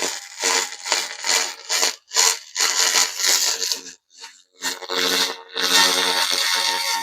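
Pulsed laser ablating carbon deposits off a small engine's cylinder head: a crackling, buzzing hiss that runs in several passes, breaking off briefly about two seconds and four seconds in.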